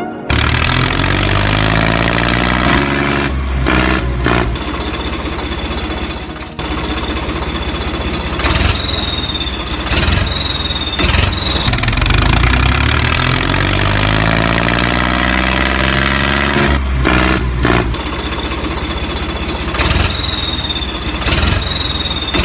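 A tractor engine running and revving, its pitch sliding up and down, with occasional sharp knocks and brief high whistling tones.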